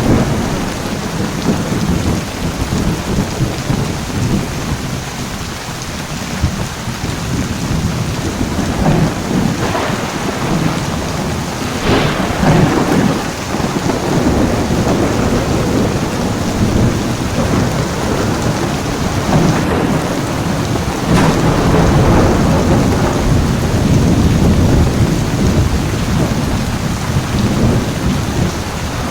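Heavy rain falling steadily during a thunderstorm, with low rolling thunder rumbling underneath and a couple of sharper cracks partway through.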